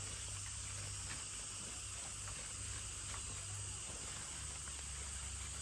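Steady outdoor field ambience: an even, high insect drone over a low rumble, with no distinct events.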